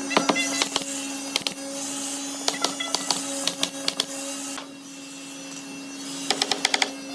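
A small electric motor running with a steady hum, under irregular sharp clicks and taps. Near the end comes a fast run of ticks, about ten a second.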